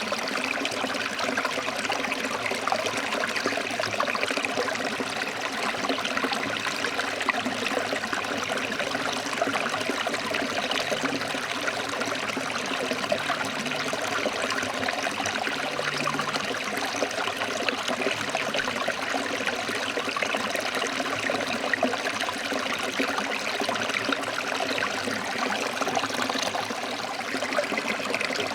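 Stream water flowing over rocks, a steady, even rush and babble without a break.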